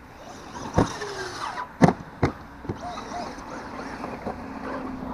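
Brushless electric motor of a Traxxas Ford Fiesta ST VXL radio-controlled rally car whining, with three sharp knocks about a second apart in the first half.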